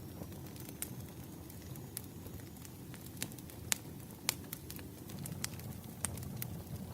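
Burning firewood crackling, with a steady low rumble of flame and irregular sharp pops and snaps, the loudest a little under four seconds in and again shortly after.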